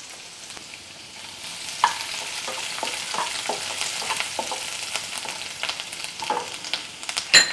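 Chopped garlic sizzling in hot oil in a nonstick wok, stirred with a wooden spatula that scrapes and taps the pan. The sizzle grows louder about a second and a half in, and there is a sharp knock near the end.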